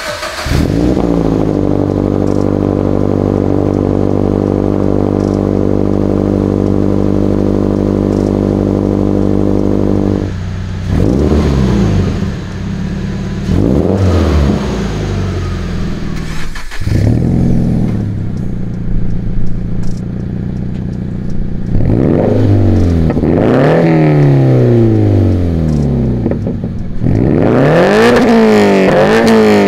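Scion FR-S's 2.0-litre FA20 flat-four cold-starting through a titanium Tomei Expreme Ti Type-60s catback exhaust on the stock header and front pipe. It catches at once and holds a steady high cold idle for about ten seconds, then is blipped with rising and falling revs, the blips coming quicker and closer together in the last several seconds.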